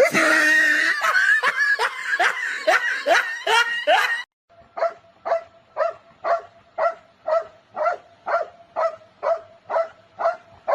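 A dog barking over and over in a steady rhythm, about two barks a second, from about four seconds in. Before that comes a faster, busier run of short calls with a steady high tone behind them.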